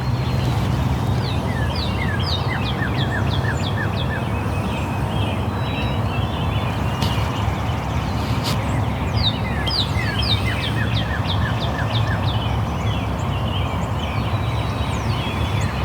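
Birdsong: two runs of quick, falling chirps, each about three seconds long, near the start and again past the middle, over a steady low hum and even background noise.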